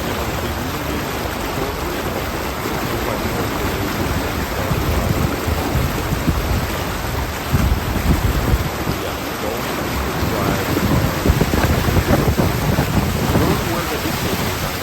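Wind buffeting the microphone in uneven gusts, a low rumble over a steady rushing hiss.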